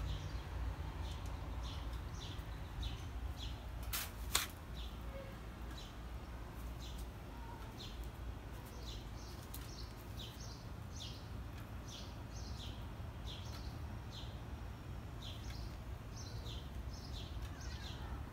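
A small bird chirping over and over, short falling chirps about twice a second, over a steady low rumble. Two sharp clicks come about four seconds in.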